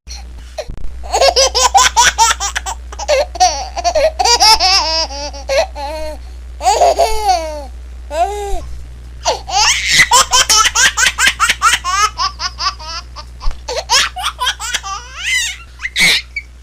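A baby laughing: high-pitched giggles in rapid strings of short pulses, in several separate laughing fits with brief pauses between, over a low steady hum.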